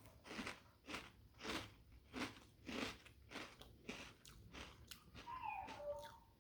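A mouthful of Cocoa Pebbles Crunch'd cereal in milk being chewed, with a steady crunch at about two chews a second. A brief wavering whine comes near the end.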